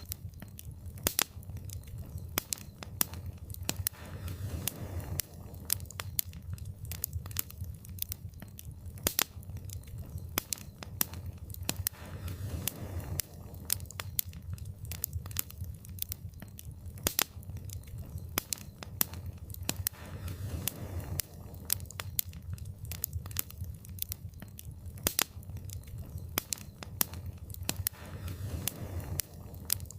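Wood fire crackling in a fireplace: a steady low rumble of the flames with frequent sharp pops and snaps at irregular intervals, and a soft swell about every eight seconds.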